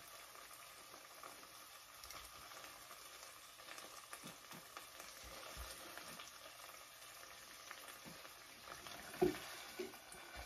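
Chopped steak and onions sizzling faintly in a hot skillet, with light clicks and scrapes of tongs and a spatula against the pan, a few louder knocks near the end as the pan is scraped out.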